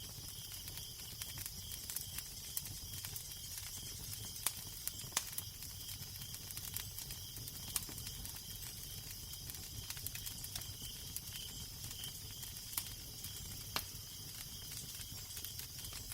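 Wood fire crackling, with scattered sharp pops over a steady hiss, and a low rumble of wind underneath.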